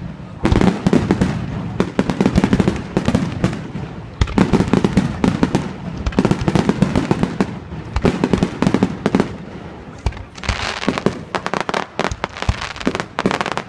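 Fireworks display: a rapid barrage of aerial shell bursts, bangs following one another almost without pause. From about ten and a half seconds in, a brighter crackling joins the bangs.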